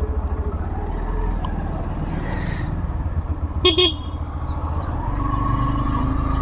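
Motorcycle engine running steadily on the move, picked up by a phone microphone on the bike, with a short vehicle horn beep a little past halfway.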